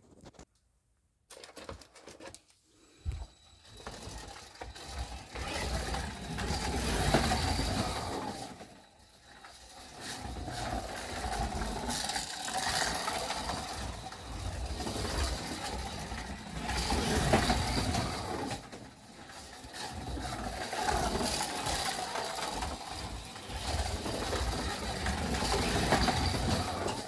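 Slot car truck lapping the track, its small electric motor whirring and whining along with the rumble of its wheels and pickup on the slot. The sound swells and fades about every five seconds as it comes past and goes away around each lap.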